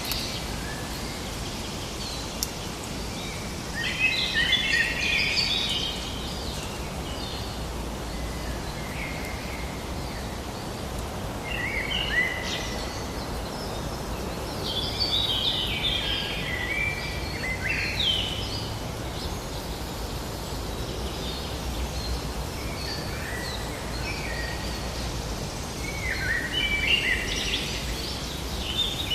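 Forest ambience: birds singing in short bursts of chirping phrases every few seconds over a steady low background rumble.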